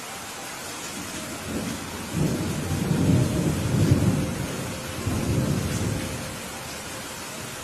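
Steady rain with a rolling rumble of thunder that builds about a second and a half in, swells twice and fades away near the end.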